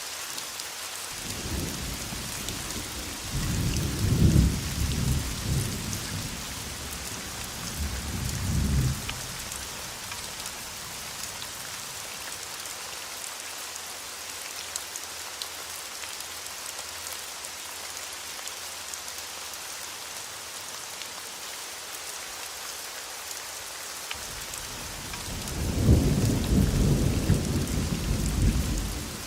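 Steady rain falling with a constant hiss, broken by rolling thunder: a long rumble in the first nine seconds that swells twice, and another near the end.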